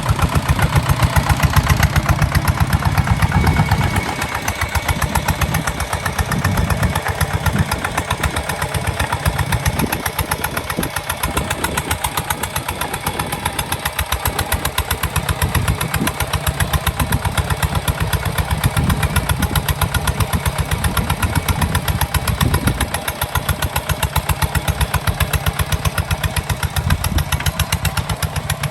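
Kubota ZT 155 DI single-cylinder diesel engine running steadily with a rapid, even firing beat, a little louder for the first few seconds.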